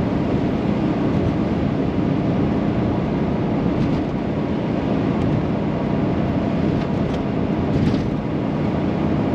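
Inside the cab of a moving VW Vanagon: its rear four-cylinder engine running with tyre and road noise as a steady low drone.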